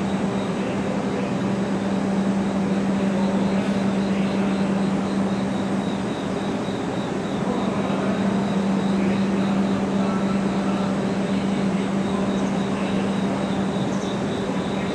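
E7 series Shinkansen train pulling slowly into the station platform, its running noise heard over a steady low hum that holds throughout.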